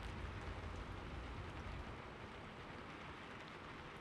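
Steady rain falling, an even hiss with faint scattered drop ticks, under a low rumble that fades about two seconds in.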